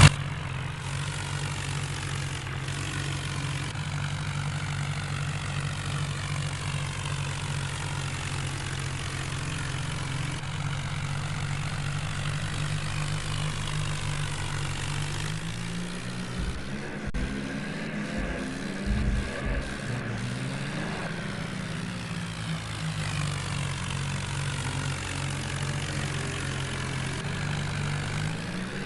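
Tractor diesel engine running steadily, its note wavering and shifting in pitch for several seconds past the middle before settling again.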